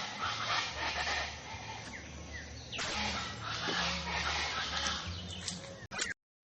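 Birds chirping and calling against steady outdoor background noise, with short chirps here and there; the sound cuts out briefly near the end.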